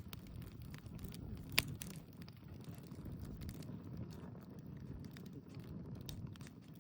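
Wood campfire crackling, with scattered sharp pops over a low steady rumble; one pop about a second and a half in is much louder than the rest.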